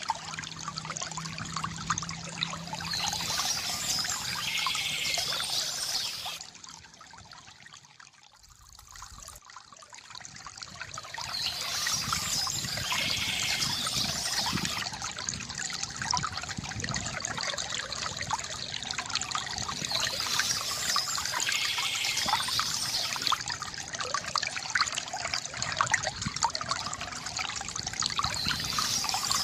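Water trickling and splashing steadily from a bamboo fountain. It drops to a quieter dribble about seven to ten seconds in, then builds back up.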